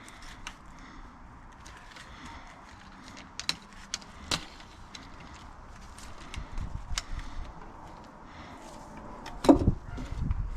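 Metal tools and engine parts clinking and tapping while the engine is being taken apart, with scattered sharp clicks and a louder knock about nine and a half seconds in.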